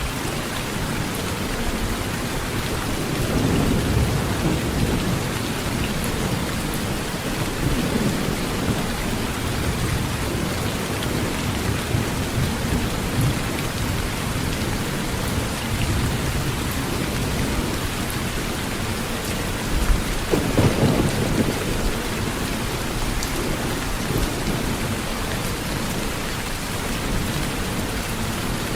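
Heavy rain drumming steadily on a tin roof, with low rolls of thunder: one a few seconds in and a louder one about two-thirds of the way through.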